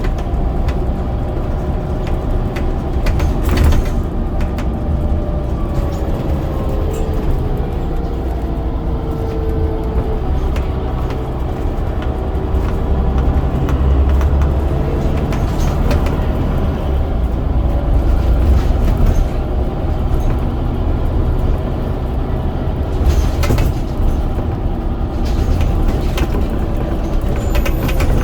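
Scania N94UD double-decker bus with its 9-litre DC9 diesel engine running under way: a steady low rumble, with a whine that falls and then rises again in pitch around the middle. A few sharp clicks or rattles come through now and then.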